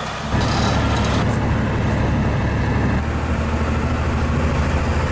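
A road vehicle driving: a steady, loud, low engine and road rumble that starts about half a second in.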